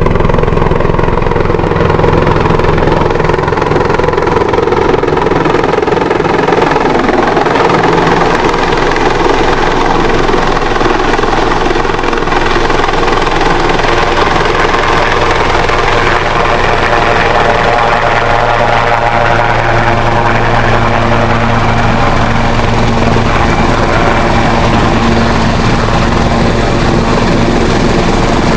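Emergency medical helicopter's turbine engine and rotor running steadily and loudly, its pitch shifting slightly about two-thirds of the way through.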